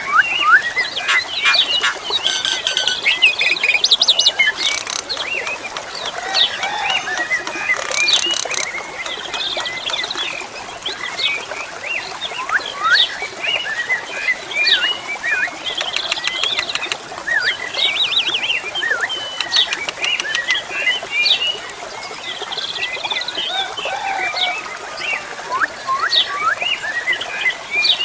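Pied starling (jalak suren) singing continuously: a varied run of clear whistles, up-and-down glides and fast chattering trills.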